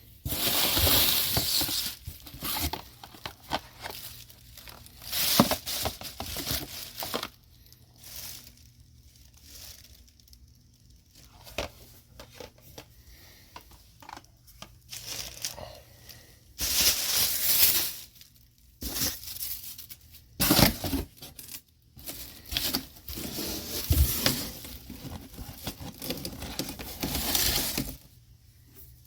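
Packaging being torn open and crinkled by hand, in several separate bursts with quieter rustling between.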